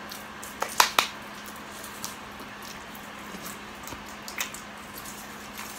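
Close-up chewing and wet mouth clicks from eating a cheeseburger, with a few sharp smacks about a second in and softer ones after.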